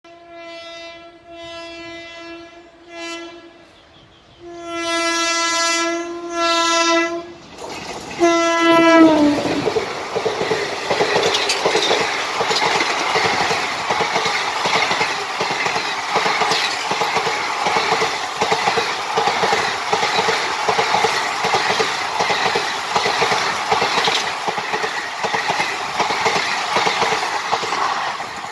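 WAP-4E electric locomotive's horn sounding a series of blasts, the last one sliding down in pitch, then the passenger coaches of an express train rolling past at speed with a steady clickety-clack of wheels over the rail joints.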